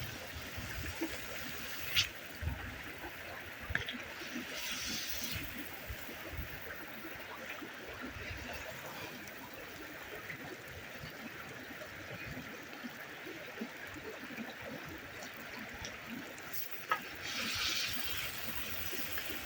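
Steady trickling water, with a sharp click about two seconds in and another near the end.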